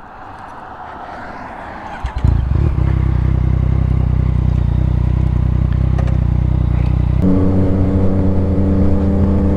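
Motorcycle engine starting about two seconds in and idling steadily, then settling at a higher steady engine speed about seven seconds in.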